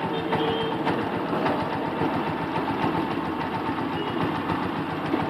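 An engine running steadily with a fast, even low pulsing.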